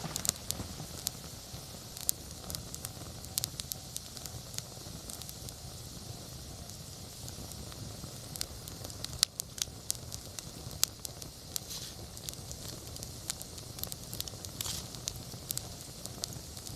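Wood fire burning, with irregular sharp crackles and pops over a steady hiss; a couple of louder pops come about halfway through.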